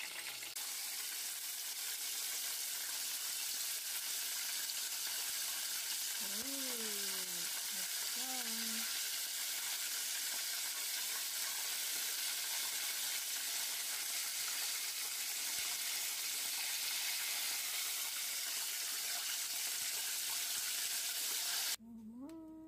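Breaded chicken pieces deep-frying in hot oil in a stainless steel saucepan: a steady sizzle, which cuts off suddenly near the end.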